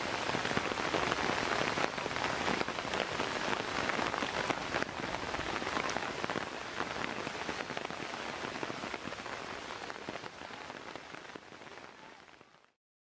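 Rain falling steadily, with many separate drop hits, fading out gradually near the end and stopping just before it.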